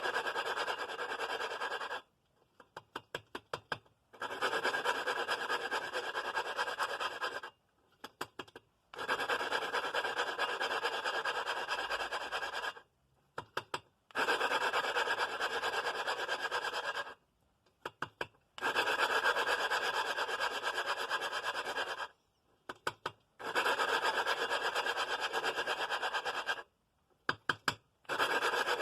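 Engine valve being hand-lapped into its seat with a suction-cup lapping tool and lapping compound. It is a gritty grinding in spells of a few seconds, six of them, each broken by a short pause with a quick run of light ticks.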